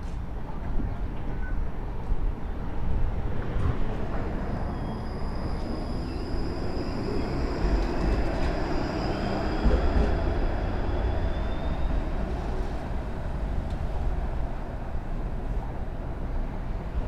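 Ride noise inside a TTC streetcar running on its tracks: a steady low rumble of wheels and motors. About four seconds in, a thin high whine joins, with a second tone rising in pitch, and both die away about thirteen seconds in.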